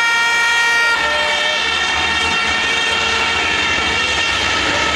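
Racing trucks' diesel engines running hard, with a high, steady whine. The sound changes abruptly about a second in, and after that the pitch slides up and down.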